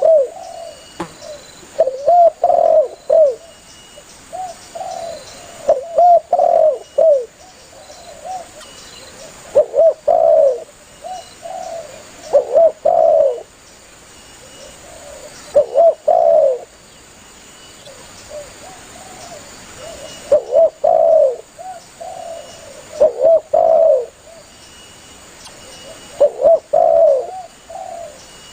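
Spotted dove (tekukur) cooing to call other doves: phrases of two or three short, slightly falling coo notes, repeated every few seconds.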